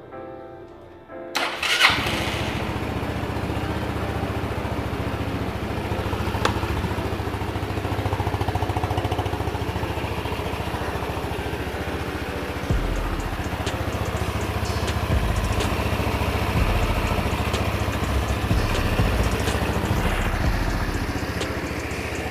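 Rebuilt Empire Outlook scooter's single-cylinder four-stroke engine starting about a second and a half in, on its first start after the rebuild, then running steadily.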